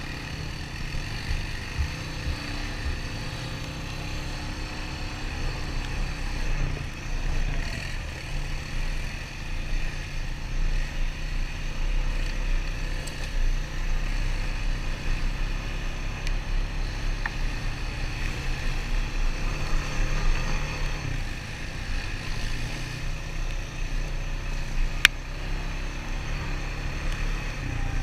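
Honda ATV single-cylinder four-stroke engine running steadily while riding a trail, over a constant low rumble. A single sharp click sounds about 25 seconds in.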